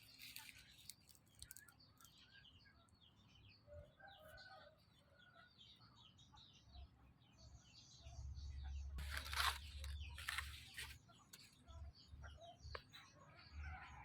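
Faint chirping of birds, with a low rumble and two brief rustling bursts a little past the middle.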